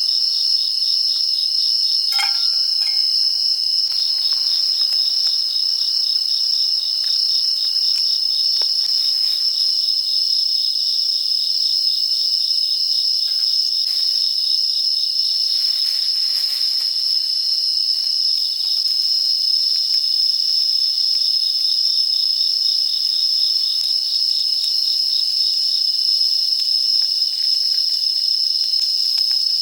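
A dense, continuous chorus of insects chirping, high-pitched and steady with a fast pulsing trill, with a brief clink about two seconds in.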